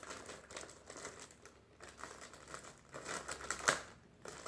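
Packaging being handled, crinkling and rustling in irregular bursts, with a sharper crackle about three and a half seconds in.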